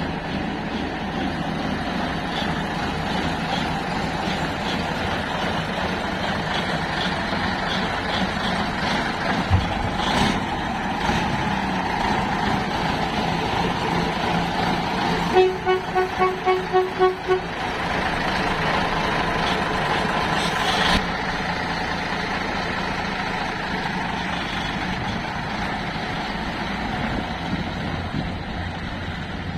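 Fiat 691 four-axle truck's diesel engine running steadily. About halfway through, a run of about eight short, evenly spaced beeps lasts some two seconds, with brief hisses about ten and twenty-one seconds in.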